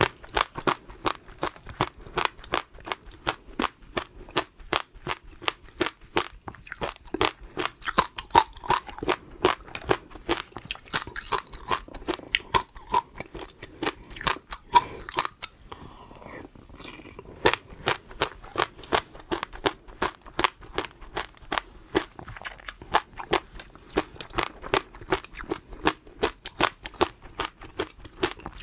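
Close-miked ASMR chewing of crunchy food: sharp crunches about four a second, with a pause of about two seconds midway before the chewing resumes.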